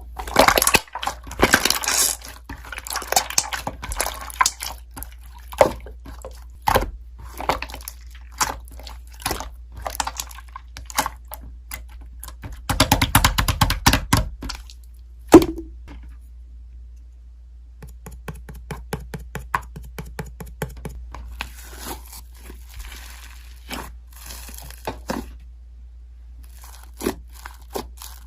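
Close-up handling noises: many short clicks, taps and crinkles, with a denser spell of crackling about a third of the way through.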